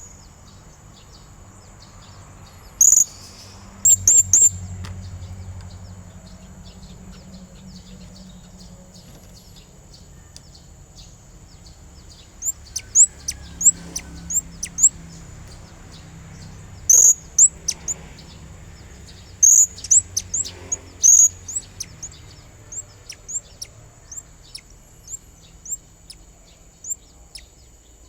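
Blue-crowned hanging parrot (serindit) calling: very short, sharp, high-pitched chirps in quick runs of several notes, with pauses between the runs and scattered single chirps near the end. These are the calls used to lure a rival male.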